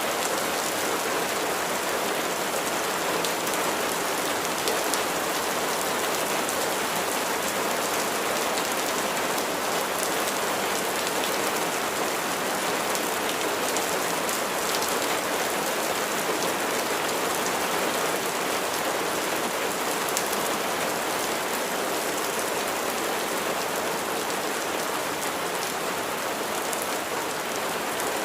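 Steady rain falling, an even patter of drops on a hard surface with no change in strength.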